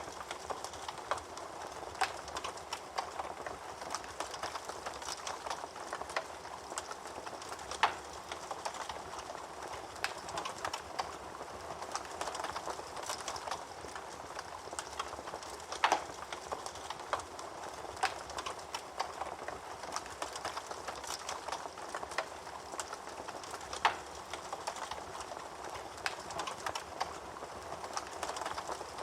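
Wood fire crackling steadily in a fireplace, full of small snaps, with a sharper, louder pop about every eight seconds.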